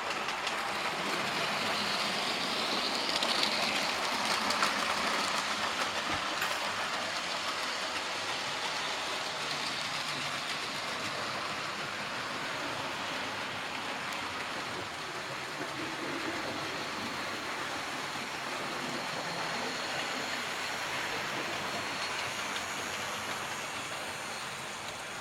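00 gauge model train running along a layout's track, a steady rumble of wheels and motor.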